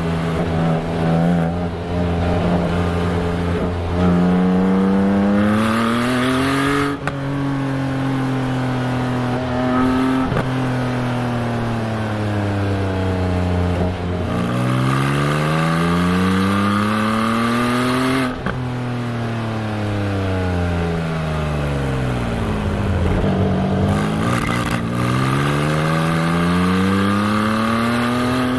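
Exhaust of a 2021 Porsche 718 Spyder's 4.0-litre flat-six, heard from a microphone on the rear bumper. The engine note climbs in pitch under acceleration and drops sharply at quick PDK upshifts, about seven seconds in and again near the middle. Between the pulls the revs fall away as the car coasts.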